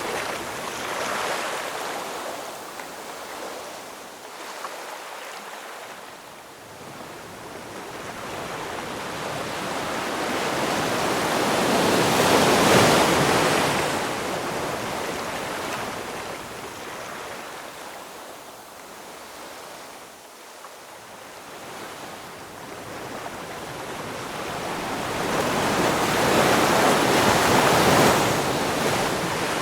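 Ocean waves breaking on a shore, each one swelling into a crash of surf and washing back before the next. The biggest breaks come about halfway through and again near the end, with quieter wash between.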